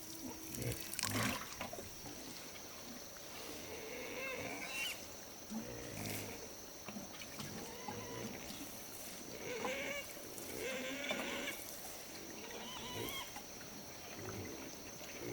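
Animal calls: several short cries that bend up and down in pitch, over a steady high-pitched hum.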